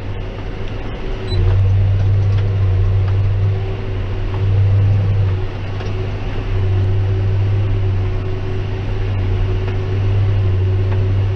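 John Deere 6190R tractor's six-cylinder diesel running steadily under load while it drives a Claas 3300 big square baler through barley straw. The low drone swells and eases every second or two as the load comes and goes.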